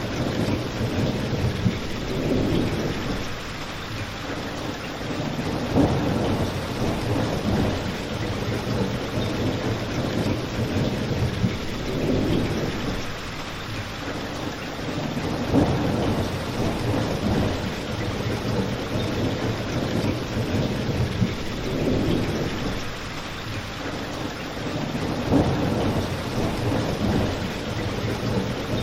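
Steady rain falling, with low rumbling swells every few seconds and a few sharp pops from a crackling fireplace.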